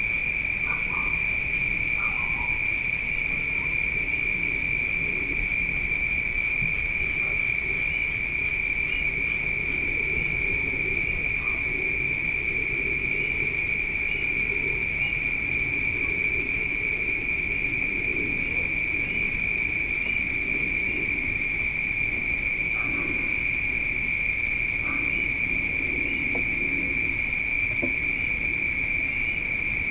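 Night chorus of crickets: a steady, unbroken shrill trilling at two pitches, with small scattered chirps over it.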